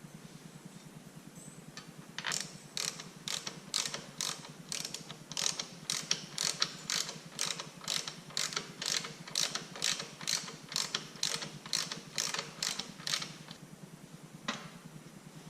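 Hand ratchet wrench being worked, clicking evenly at about two strokes a second for some ten seconds, with one more click near the end.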